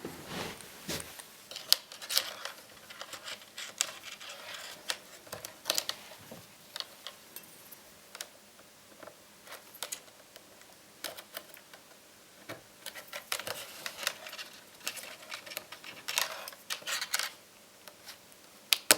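Irregular small clicks, taps and light scraping of plastic and metal laptop parts being handled and worked by hand.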